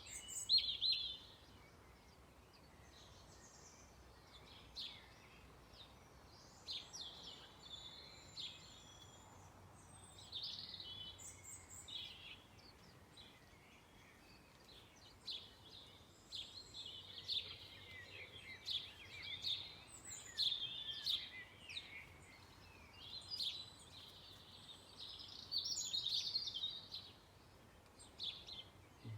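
Songbirds singing: a steady run of short, high chirps and trilled phrases, often overlapping, with brief gaps between them.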